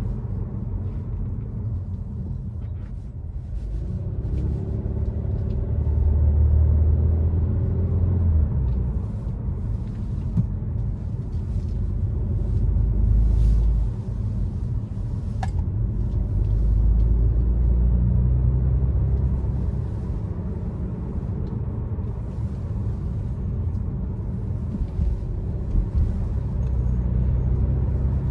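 BMW F30 330i with an aftermarket Aura ARP exhaust driving, its low exhaust drone swelling and easing off several times as the car accelerates and lifts. A single sharp click sounds about halfway through.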